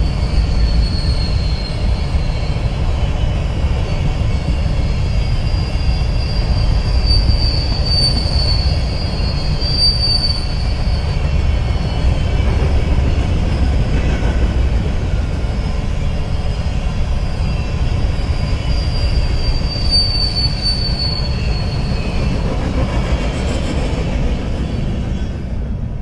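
BNSF freight train of covered hopper cars rolling past: a steady, heavy rumble of steel wheels on rail, with high-pitched wheel squeal coming and going several times. The sound falls away near the end as the last car passes.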